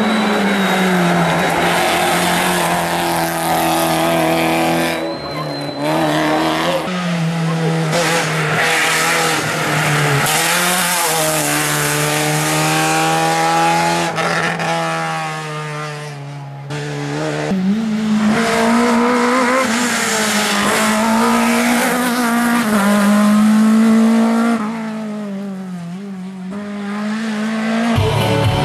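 Racing car engine at high revs, accelerating hard with repeated gear changes, its pitch climbing and dropping several times; the engine note eases off briefly a few times.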